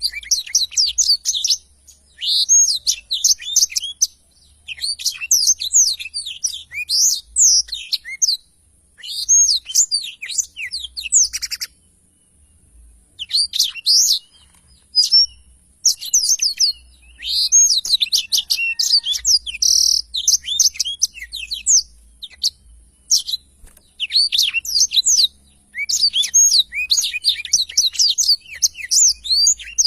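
Blackthroat (black-throated canary) in full song: rapid, high-pitched twittering phrases of one to two seconds, repeated with short pauses.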